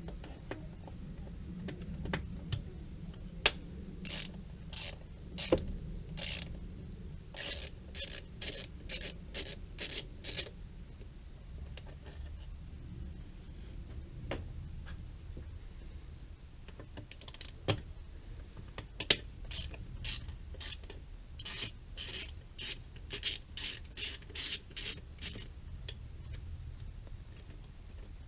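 Socket ratchet wrench worked back and forth, undoing bolts: runs of quick clicking strokes, two or three a second, twice over, with a few sharp metal clinks of tools between them.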